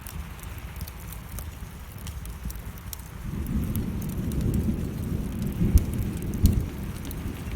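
Wood fire crackling in a fireplace over steady rain. About three seconds in, a low rumble of thunder swells, with two sharp louder cracks less than a second apart a little later.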